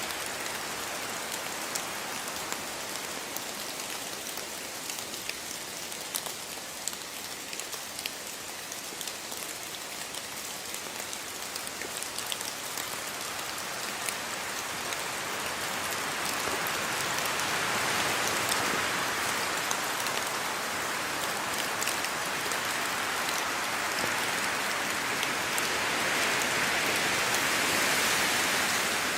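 Steady rainfall, a continuous hiss with many separate drops ticking through it. It swells heavier about halfway through and again near the end.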